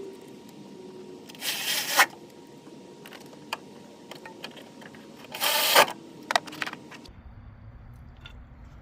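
Two short bursts of scraping from tools and parts being worked by hand, each ending in a sharp click, with a few more clicks just after the second; the background drops to a quieter hum near the end.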